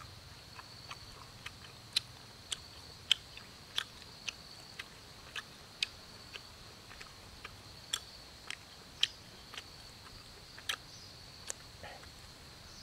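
A person chewing and biting roasted rabbit meat close to the microphone: sharp wet clicks and smacks, irregular, about one or two a second. Behind it, a faint steady high-pitched insect trill.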